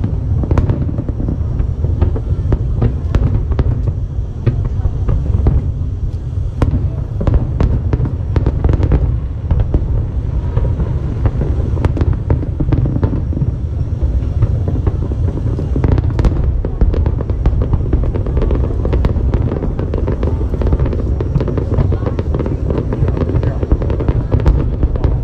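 Large aerial fireworks display going off continuously: a dense run of low booms with many sharp cracks and crackles over it.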